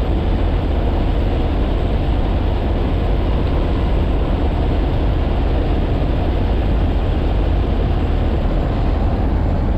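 Steady, loud low rumble of a heavy vehicle running, with no break or change.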